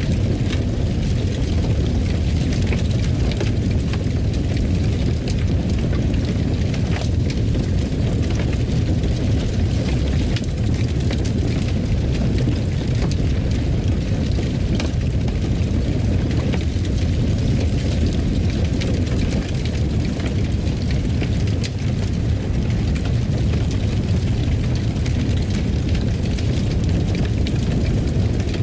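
A fireplace fire burning: a steady low rumble of flame with scattered sharp crackles and pops all through.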